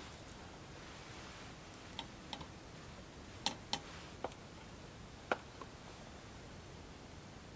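A handful of short, sharp clicks at uneven intervals, about seven in all, the loudest a pair near the middle, over a faint steady background.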